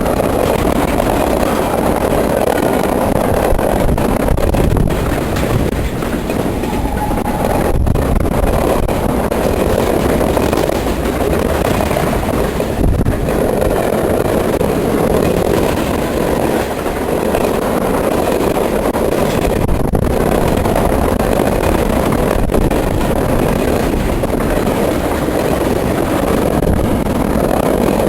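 Mixed freight train rolling past at track speed: a steady, loud rumble of steel wheels on rail as the cars go by.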